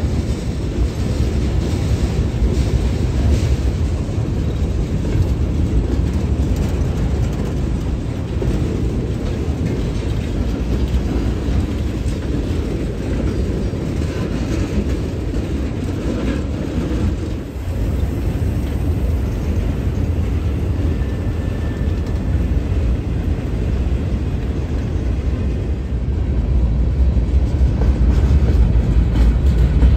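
Freight train cars rolling past at close range: a steady low noise of steel wheels on the rails that grows louder near the end.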